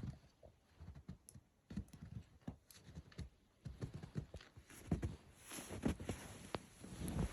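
Footsteps walking in snow: an uneven run of soft thuds, with a hiss swelling briefly past the middle.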